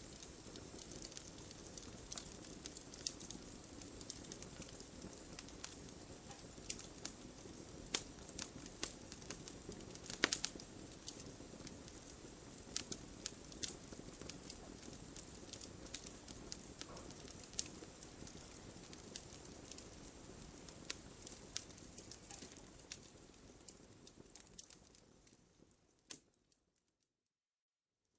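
Wood fire crackling, with many sharp pops over a steady hiss of burning and the loudest pop about ten seconds in. Near the end the sound fades out to silence for about two seconds.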